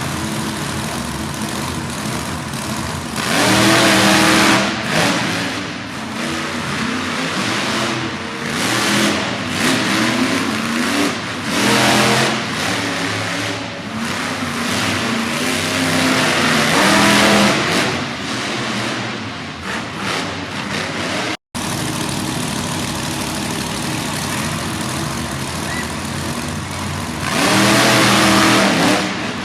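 Monster truck engines running loud, revving hard in several bursts with their pitch rising and falling, and steadier lower running in between.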